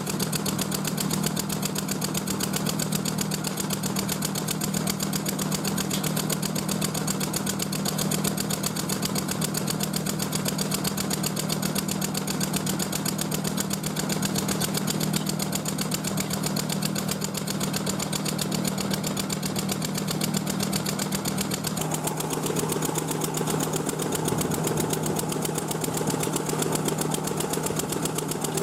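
A motor-driven machine running steadily with a strong low hum and a fine rapid pulse; about three quarters of the way through its sound changes, with more of the middle range coming in.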